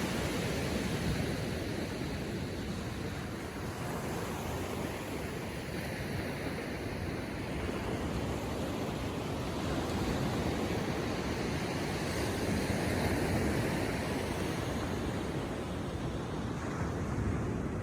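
Gentle ocean waves lapping on the shore: a steady wash of surf that swells and eases slowly.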